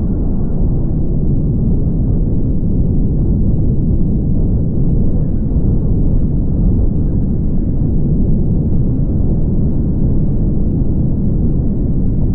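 Steady low rumble of a car on the move: road and wind noise, with no breaks or separate events.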